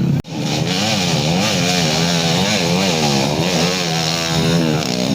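Trail motorcycle engine revving up and down over and over, about two rises and falls a second, as the throttle is worked on and off, after a brief dropout about a quarter second in.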